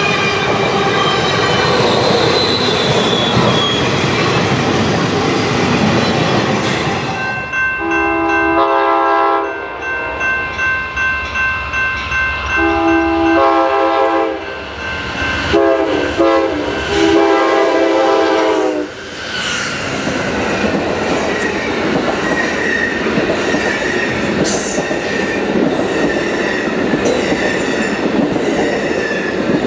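A passing train sounding its multi-note horn in several sustained blasts in the middle, between stretches of steady rolling wheel noise and rail clatter from the passing cars.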